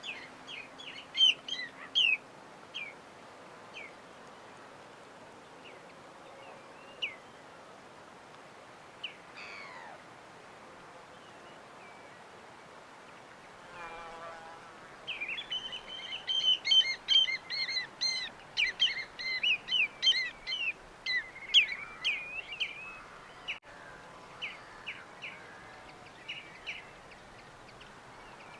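Small birds chirping over a faint steady hiss: scattered chirps at first, then a dense run of rapid chirping from about halfway through that thins out near the end.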